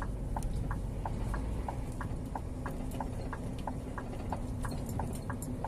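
Scania G410 truck's engine running low and steady, heard from inside the cab, with an indicator relay ticking evenly about three times a second.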